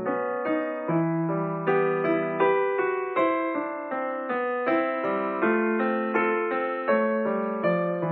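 Background piano music: a slow melody of struck notes, each fading after it is played, over held lower notes.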